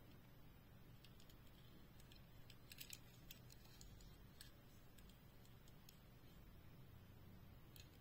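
Near silence with a few faint clicks and taps, a small cluster about three seconds in: small toy cars and their packaging being handled.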